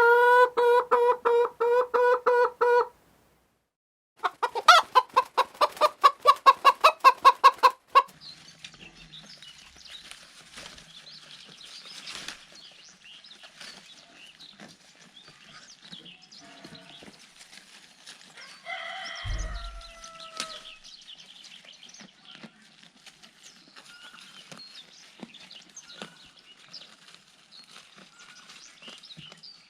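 Farm animal calls: a loud bleating call with a fast wavering at first, then a quick string of loud calls, then a long stretch of quieter chickens clucking and scratching about, with one louder call about two-thirds of the way through.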